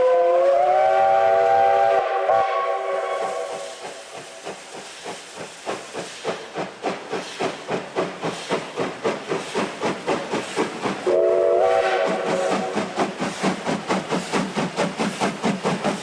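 Steam locomotive chime whistle blowing a chord of several tones that slides up into pitch and holds for about two seconds, then fades. The engine's exhaust then chuffs at a steady beat of two to three a second, and the whistle blows a second, shorter blast about eleven seconds in.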